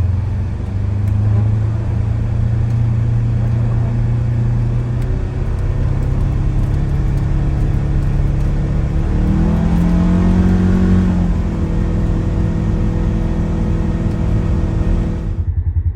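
Engine of a Polaris Ranger Crew 1000 XP side-by-side running steadily under way. Its pitch rises about nine seconds in as it picks up speed, then eases back a couple of seconds later.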